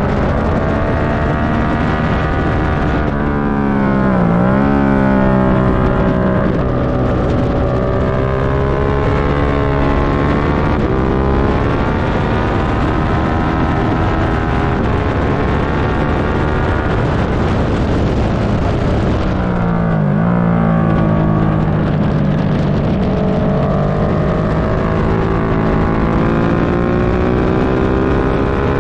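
Suzuki SV650's 645 cc 90-degree V-twin engine running hard at race speed, the revs climbing and falling through the gears, with sharp dips about four seconds in and again around twenty seconds in. Wind noise rushes underneath the engine note.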